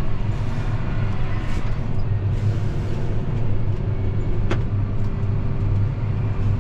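John Deere 6145R tractor's six-cylinder diesel running steadily under load, pushing snow with a front blade. A faint steady whine comes in about three seconds in, and there is one sharp click about four and a half seconds in.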